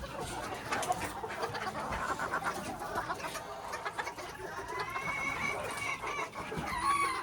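Old English Game bantam chickens clucking and calling in their pens, several birds at once, with a longer drawn-out call in the second half.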